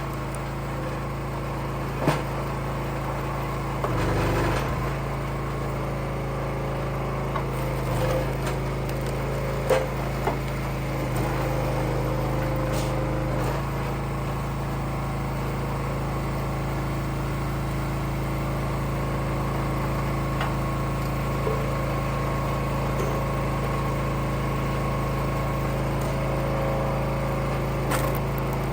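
Engine of a Wolfe Ridge firewood splitter running steadily at a constant speed, with a few short sharp knocks over it.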